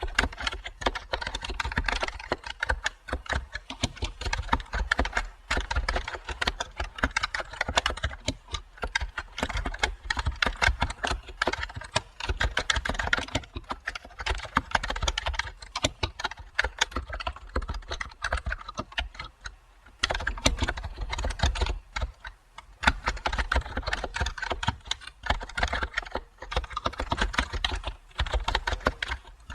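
Typing on a computer keyboard: quick runs of keystrokes with a few short pauses between bursts.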